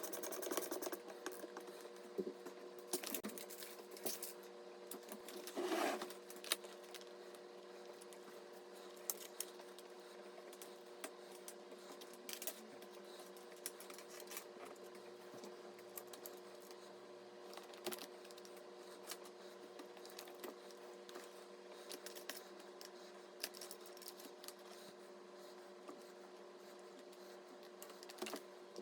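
Light, scattered clicks and taps of PC components being handled during assembly, with a short louder rustle about six seconds in, over a steady faint hum.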